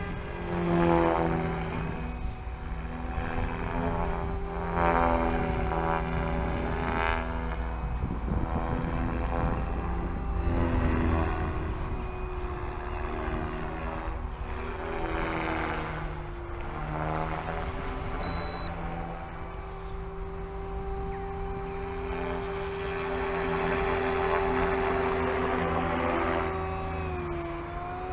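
SAB Goblin 500 electric RC helicopter flying 3D manoeuvres: the electric motor and main-rotor whine shifts up and down in pitch, and the blade noise swells and fades several times as the helicopter swings around in hurricanes, then holds steadier for a stretch.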